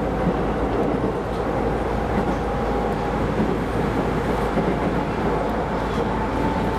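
Keisei Line electric commuter train running, heard from inside the front car: a steady rumble of wheels on rail with a faint steady whine above it.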